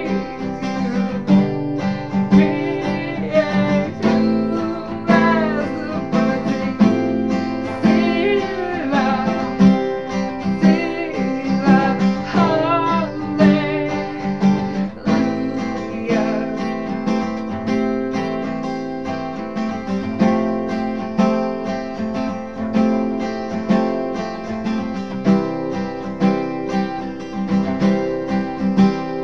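Acoustic guitar strummed steadily, with a voice singing a worship song over it through the first half. The singing drops out about halfway, leaving the guitar playing on alone.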